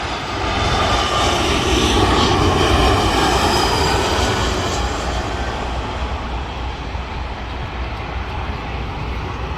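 Jet airliner passing low overhead, its noise swelling to its loudest about two to three seconds in and then slowly fading.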